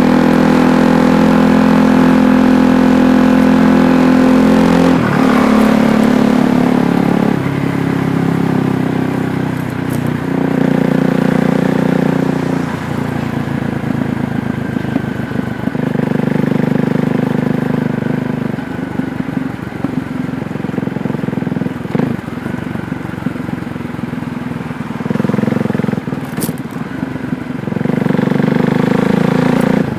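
KTM Duke 390's single-cylinder engine running while being ridden. Its note holds steady for a few seconds at a time, then drops and picks up again several times as the throttle is closed and reopened.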